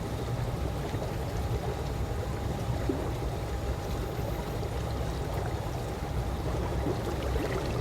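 Calm swimming-pool water lapping and trickling steadily over a low rumble, with a faint steady hum underneath.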